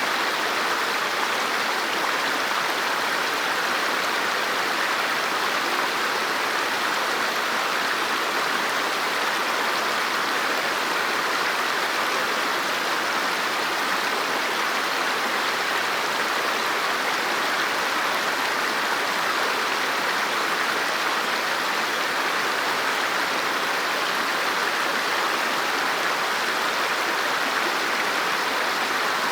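River water flowing and rushing steadily, an even, unbroken hiss of moving water with no separate splashes or pauses.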